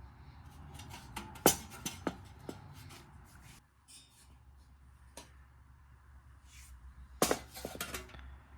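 Sharp knocks and clinks of hard objects being handled: a few single ones in the first few seconds, one in the middle, and a quick cluster near the end, over a low steady hum.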